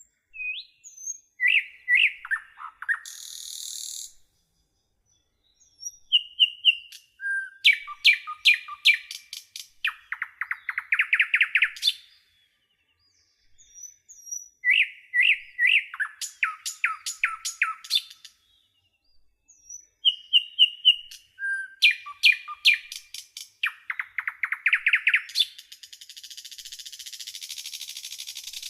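A songbird singing the same complex phrase over and over, with gaps between: clear whistled notes, a quick stuttering run, then a buzzy ending. A long harsh rasp comes near the end.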